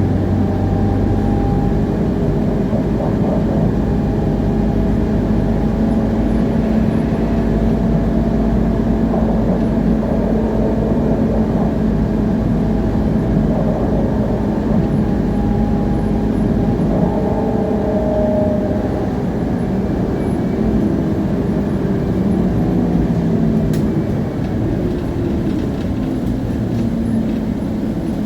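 Scania CN280UA city bus driving, heard from on board: the Scania DC9 five-cylinder diesel running through a ZF Ecomat automatic gearbox, with the rear drive axle's gear whine clearly audible as steady tones that drift up and down with road speed.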